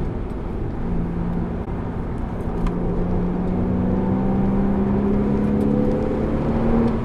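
Porsche Cayman engine heard from inside the cabin over road and tyre noise, easing off through a corner and then accelerating, its note rising steadily from about a third of the way in.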